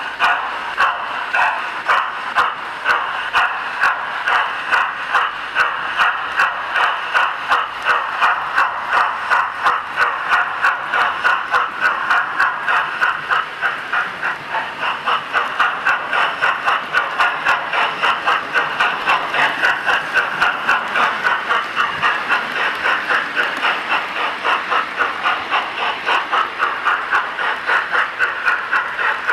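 Sound decoder of a DCC model of the LNER A4 steam locomotive Silver Fox playing steam exhaust chuffs, an even, steady beat of hissy chuffs as the locomotive runs.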